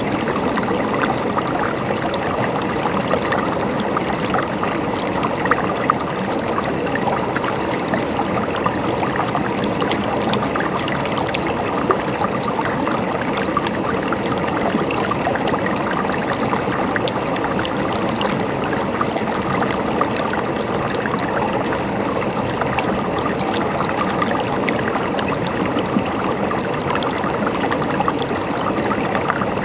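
Stream water running and babbling steadily, with many small plinks scattered through it.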